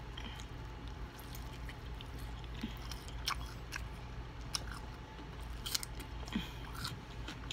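Close-up chewing of fried chicken, with scattered wet mouth clicks and small crackles of the crispy breading.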